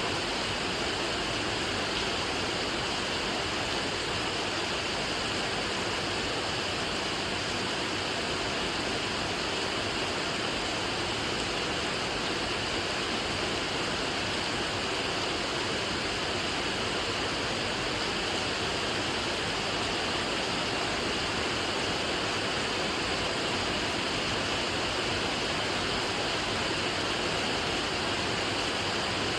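Rain falling steadily, a dense, even hiss with no separate drops standing out.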